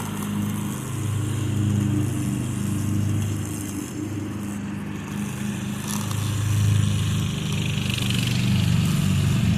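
Craftsman riding lawn mower engine running steadily at a low, even pitch, its level swelling and fading as the mower moves across the yard.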